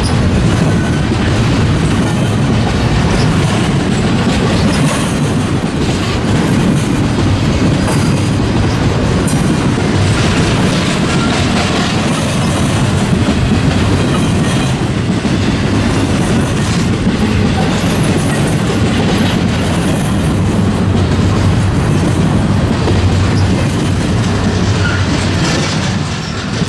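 Freight train cars rolling past, steel wheels clattering steadily over the rail joints.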